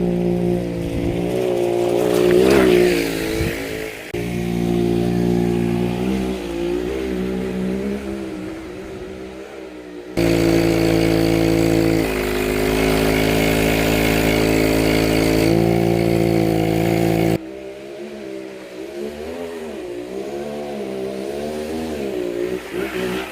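Small two-stroke engine of a petrol-powered skateboard running, its pitch rising and falling with the throttle. The sound changes abruptly twice, about ten and about seventeen seconds in.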